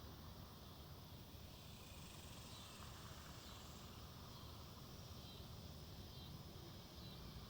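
Near silence: faint woodland ambience, a low rumble with faint high-pitched animal calls coming in after a couple of seconds.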